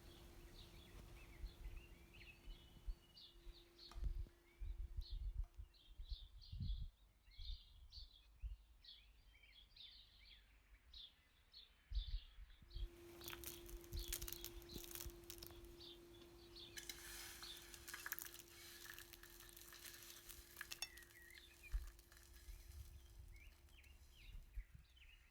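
Faint birdsong, many short chirps through the first half, over a steady low hum and scattered soft thumps; later a run of clicks and then a stretch of hiss.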